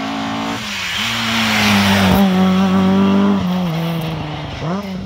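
Rally car engine at high revs passing close: the pitch drops briefly about half a second in, holds high as the car goes by loudest, then falls in two steps as it shifts down, with a quick rise in revs near the end.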